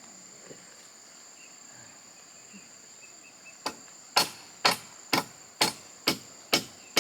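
A hammer striking, seven sharp blows at an even pace of about two a second, starting a little past halfway, as a nail is driven into the wooden frame. Insects keep up a steady high buzzing throughout.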